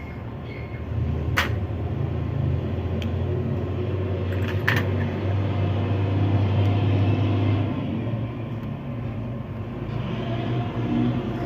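A steady low engine-like rumble that swells about a second in and eases off near the end, with two sharp clicks.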